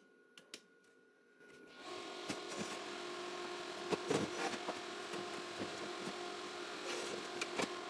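A small electric motor in an egg incubator starts about two seconds in and runs steadily with a faint hum, with scattered light clicks and knocks from the plastic egg trays. It stops just before the end.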